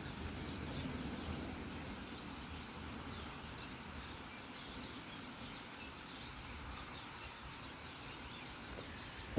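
A large flock of birds calling together, a dense, steady chatter of many overlapping chirps, over a low background rumble.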